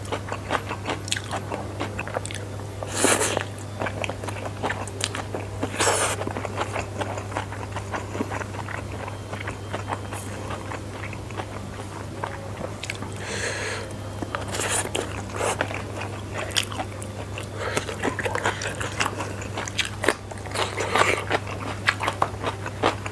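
Close-miked chewing of spicy fried flat rice noodles (kwetiau goreng) with green bird's-eye chilies: a constant run of small wet mouth clicks and smacks, broken by a few louder bursts of chewing noise about three and six seconds in and again near the middle and the end.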